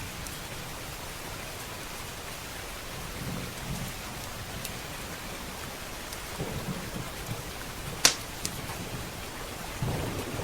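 Steady heavy rain with low rolling thunder rumbling now and then, and a few sharp crackles and pops from a wood fire, the loudest pop about eight seconds in.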